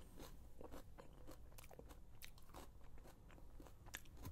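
Faint close-up chewing of crunchy shredded cabbage salad: soft, irregular crunches and mouth clicks.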